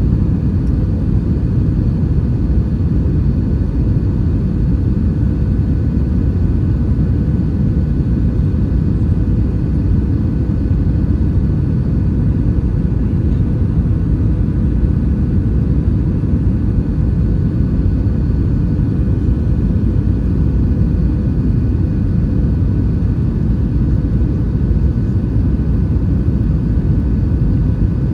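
Airbus A320-232 cabin in flight: a steady low rumble of engine and airflow noise with faint, steady whining tones above it, unchanging throughout.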